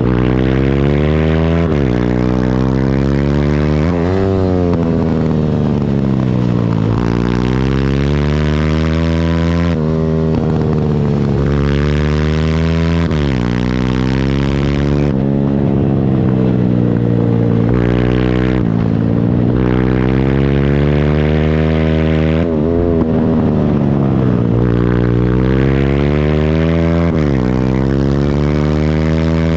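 Pit bike engine being ridden hard, its pitch repeatedly climbing under throttle and then dropping back, every few seconds.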